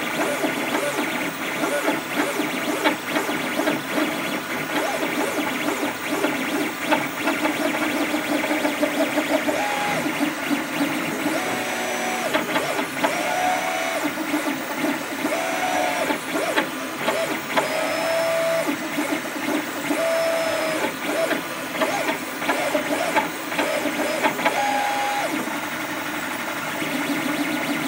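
Leapfrog Creatr HS 3D printer running, its motors whirring and rattling, with a string of short pitched tones through the middle, each under a second and at a few different pitches. These are the strange noises the owner is asking about.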